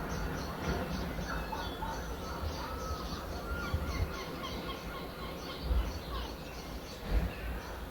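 Many small birds chirping and calling in quick overlapping notes, with a low rumble that swells twice in the second half.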